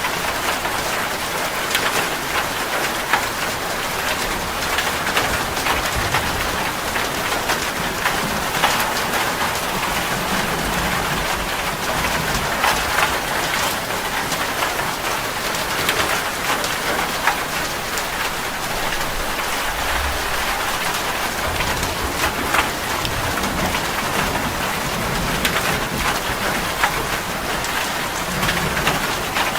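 Heavy rain drumming steadily on a metal roof, a dense patter of individual drop hits, with low rumbles of thunder now and then.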